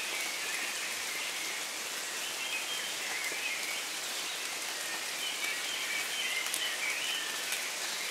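Steady rain: an even hiss with a few sharp drop ticks.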